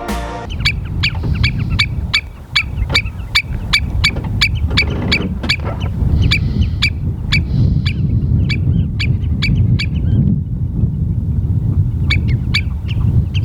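A shorebird calling over and over in short, sharp notes, about four a second, with a short break near the end before it starts again. Heavy wind rumble on the microphone lies under the calls.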